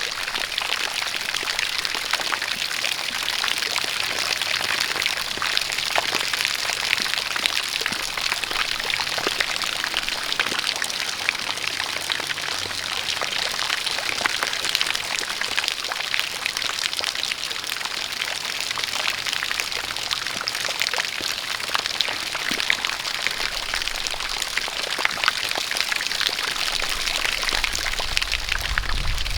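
Steady rain with many individual drops ticking, mixed with a continuous pouring jet of running water.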